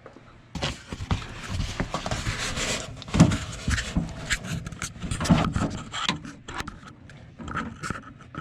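Handling noise from objects being picked up and moved: rubbing and scraping with scattered knocks and clicks, the sharpest knocks about three and five seconds in.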